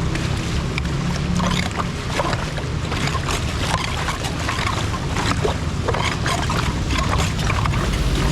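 Floodwater and rain splashing in a steady wash, with many short splashes and knocks, over a low rumble of wind on the microphone.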